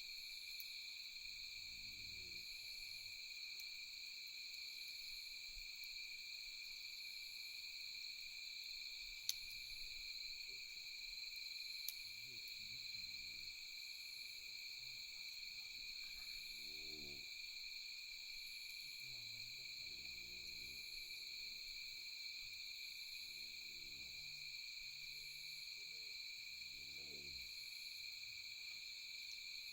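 Night insect chorus of crickets, a steady high-pitched trilling. Two sharp pops from the campfire, about nine and twelve seconds in.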